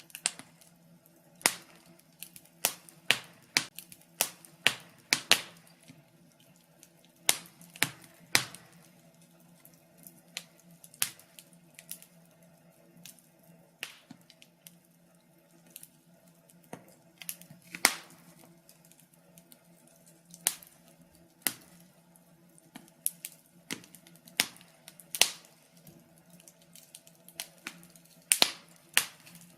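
Wood fire crackling, with irregular sharp pops and snaps, a few of them loud, some in quick clusters.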